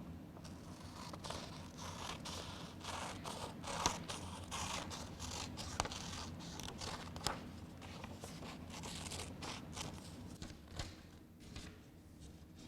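Scissors cutting out a paper heart from a sheet of paper: a run of irregular snips, with the paper rustling, tapering off near the end.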